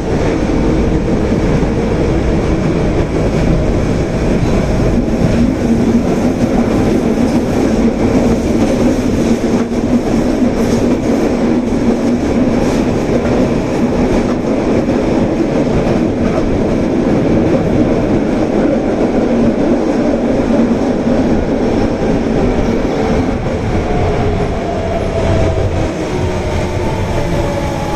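Osaka Metro Tanimachi Line subway train running at speed between stations, heard from inside the car: a steady rumble of wheels on rail with a hum. Near the end, the motor whine shifts in pitch.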